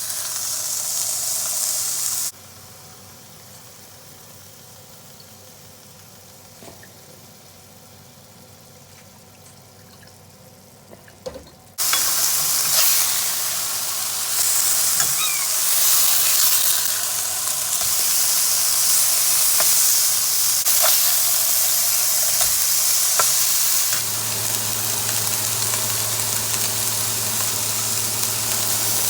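Burger patties frying with a loud, steady sizzle, with a much quieter stretch from about 2 to 12 seconds in and scattered small clicks once the loud sizzle returns. A steady low hum joins the sizzle about 24 seconds in.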